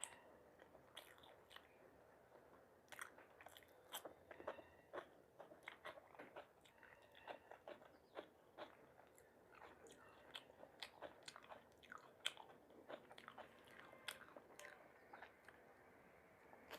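A person chewing and biting food close to the microphone, with many sharp, irregular crunches.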